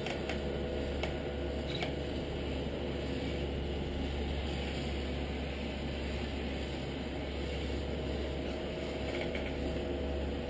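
A 1/14 scale radio-controlled Scania timber truck running, a steady mechanical hum with a few faint clicks in the first two seconds.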